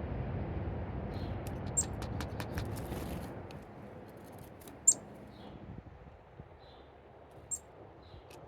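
Three short, high-pitched bird chirps a few seconds apart, the middle one loudest, with a few faint ticks, over a low rumble that fades away in the first half.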